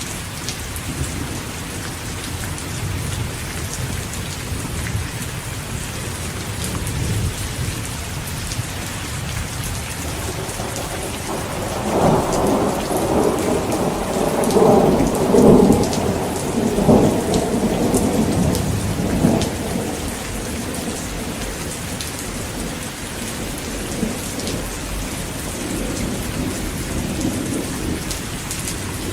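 Heavy rain falling steadily, with a long rolling rumble of thunder that swells in about twelve seconds in and fades out around twenty seconds; a fainter rumble follows near the end.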